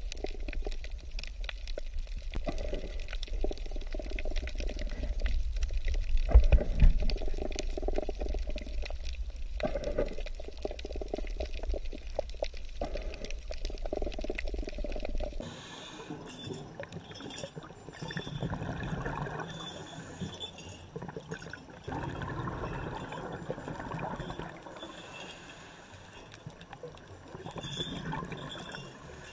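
Muffled water noise of the kind heard underwater, sloshing and rushing unevenly, with a deep rumble under it. About halfway through it changes abruptly to a thinner, lighter water noise without the rumble.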